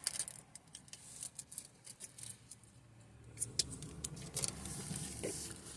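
Faint chewing of a McChicken sandwich, with small clicking, smacking mouth sounds scattered throughout and a faint low hum in the second half.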